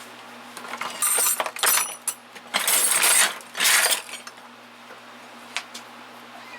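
Metal hand tools clinking and clattering in a toolbox drawer, in four loud bunches of rattles over about three seconds, then settling.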